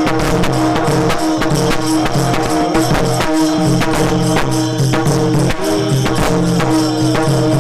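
Instrumental kirtan accompaniment with no singing: steady held notes over drum beats and the rapid clash of small hand cymbals keeping a brisk rhythm.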